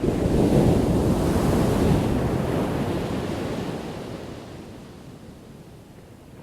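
Ocean waves crashing on the shore: one wave breaks loudly in the first second or two, then its wash fades away over the next few seconds.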